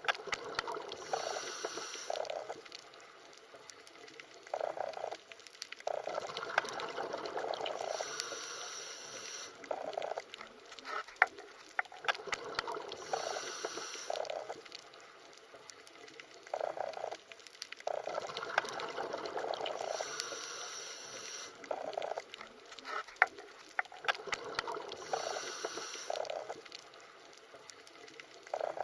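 Underwater water ambience: bubbling, gurgling water that swells and fades in surges every few seconds, with scattered sharp clicks.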